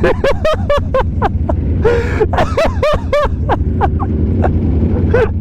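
A man laughing hard in rapid, high-pitched bursts, over the steady low rumble of a motorcycle engine and wind.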